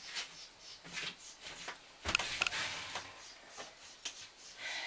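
Faint scattered clicks and light knocks, with a brief rustling swish about two seconds in.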